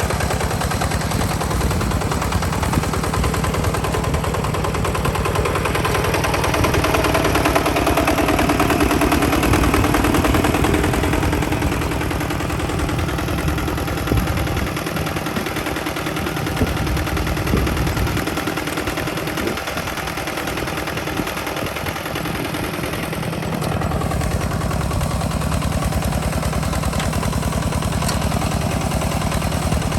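Two-wheel hand tractor's single-cylinder diesel engine running with a fast, even popping exhaust beat, dropping a little in level in the middle and then picking up again.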